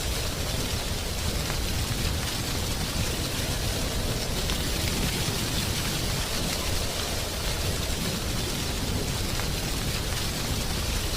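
Wind blowing through tree leaves: a steady rustling hiss with a low rumble underneath, no single gust standing out.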